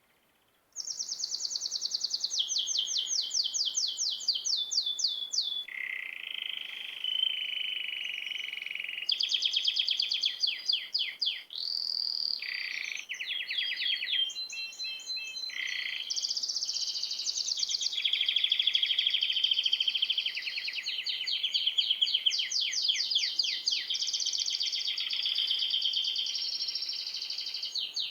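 Small songbird singing a long, varied song of rapid trills and whistled notes, starting about a second in.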